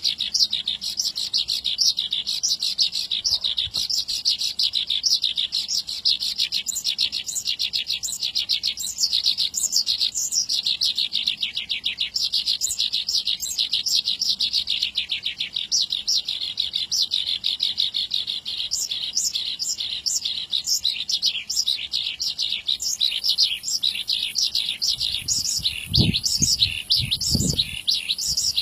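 Javanese bushlark (branjangan) singing a long, unbroken rolling song of rapid, high chirping notes. Near the end, two short low sounds come in under the song.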